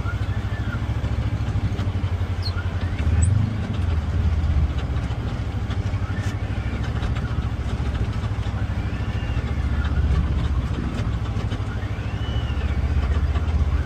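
UTV engine running as the vehicle drives along, a steady low drone that swells louder for a moment about three seconds in.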